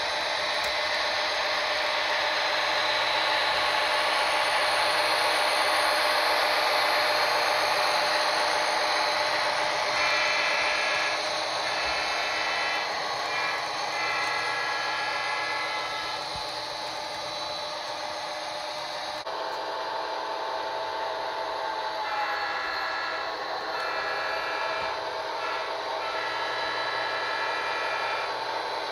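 Model train locomotive running steadily on its track while its sound-decoder horn sounds twice in a long-long-short-long pattern, the grade-crossing signal.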